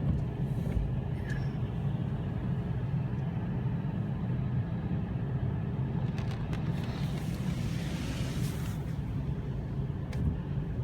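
A PDQ LaserWash G5 touchless car wash running, heard from inside the car's cabin: a steady low hum, with a hiss that swells and fades about seven to nine seconds in. The cycle is between stages, just before the soak spray begins.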